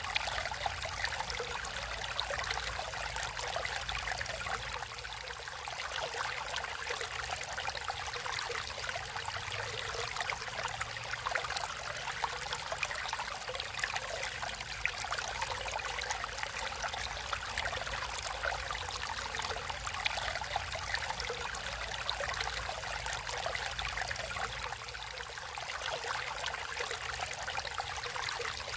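Water flowing steadily in a stream, a continuous bright splashing trickle with no breaks.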